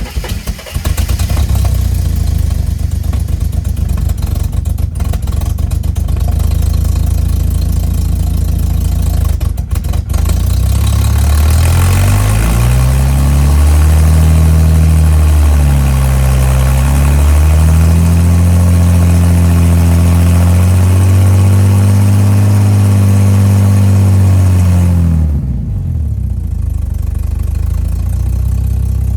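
Ford AU Falcon 4.0 inline-six engine running through a newly built custom muffler and side-exit exhaust. It idles steadily, is revved up about ten seconds in, dips briefly, is held at higher revs, then drops back to idle near the end.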